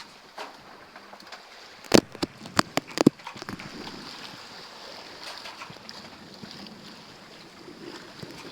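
Water rushing and wind noise aboard a sailboat under way, with a quick cluster of sharp knocks about two to three seconds in.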